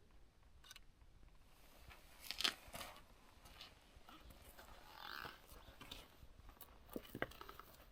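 Near silence: faint room tone with a few soft clicks and rustles, the clearest about two and a half seconds in and twice near the end.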